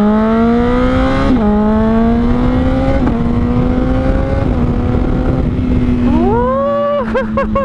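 Honda CBR600RR's inline-four engine through a Toce exhaust, pulling up through the gears with clean quickshifter upshifts: the pitch climbs and drops sharply at each shift, about 1.4, 3 and 4.5 seconds in. Near the end the revs jump and warble as the rider blips the throttle by hand to downshift.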